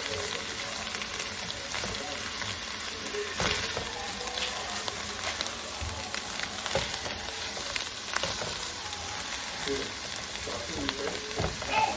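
Onions, celery and carrots sautéing in melted butter in a big cast iron pot: a steady sizzle, with a few short knocks of a spoon stirring the pot.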